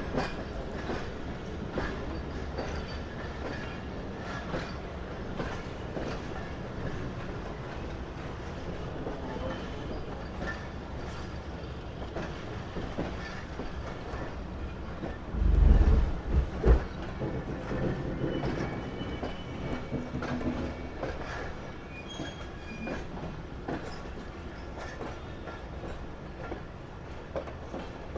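Passenger train running on the rails: a steady rumble with the wheels clicking over rail joints. About halfway through come a few heavy, low thumps, the loudest thing in the stretch.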